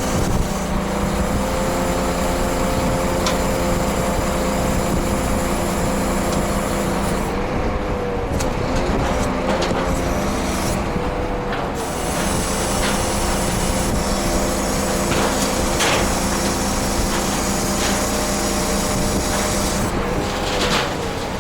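Scania truck's diesel engine running steadily, its pitch wavering briefly twice, about eight seconds in and again near the end.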